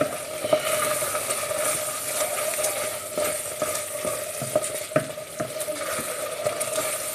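Risotto rice sizzling and bubbling in a pan of stock while a spoon stirs it, scraping and knocking against the pan in irregular clicks.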